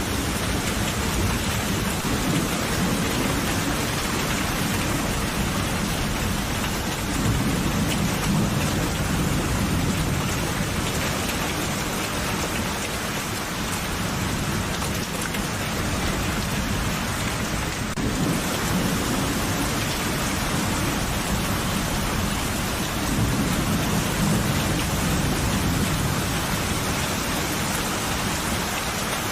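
Steady heavy rain hissing, with low rolls of distant thunder swelling up twice, about a third of the way in and again past the three-quarter mark.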